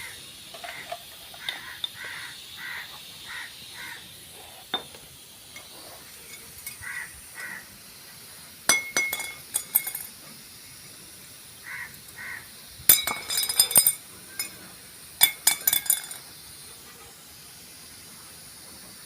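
Metal parts clinking and rattling as motorcycle clutch plates are handled and stacked during assembly. The clinks come in three short clusters, about nine, thirteen and fifteen seconds in.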